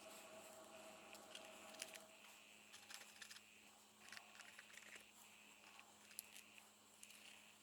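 Near silence: a faint steady hum with a few faint scattered clicks and light rustles of a book and tools being handled.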